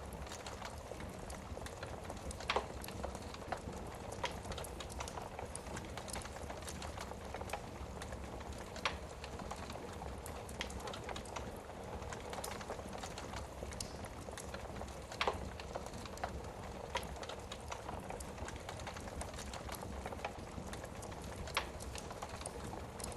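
Wood fire burning in a fireplace: a steady low hiss with scattered crackles and a few sharper, louder pops several seconds apart.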